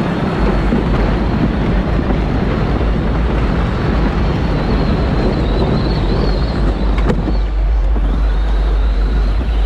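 Power Wheels ride-on toy car driving along: steady running noise of its drive with a heavy low rumble, and a single sharp click about seven seconds in.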